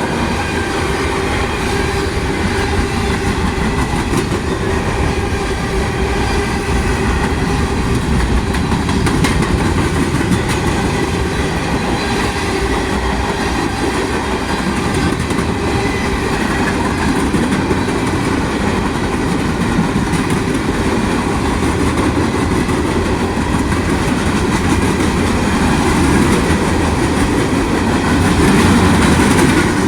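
Freight train cars rolling past, a steady loud rumble of steel wheels on the rail with faint steady ringing tones above it.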